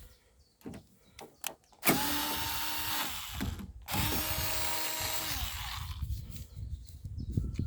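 A power drill running twice, first for about a second and then for about two seconds, its pitch dropping as it spins down each time, after a few small clicks.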